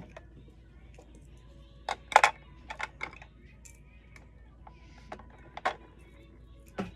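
Small plastic toy pieces clicking and knocking as they are handled, a few sharp clicks at a time with short pauses between, the loudest about two seconds in.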